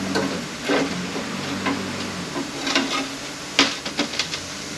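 Metal parts of an automatic transmission clinking and scraping as they are handled while the middle brake band is taken out, with a sharp clack about three and a half seconds in. A low steady hum stops about two seconds in.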